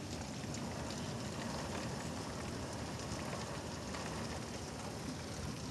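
Steady heavy rain falling and pattering on surfaces, with faint scattered drop ticks.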